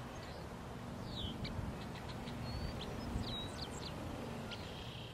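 Scattered faint, high bird chirps, short rising and falling notes, over a low steady background hum.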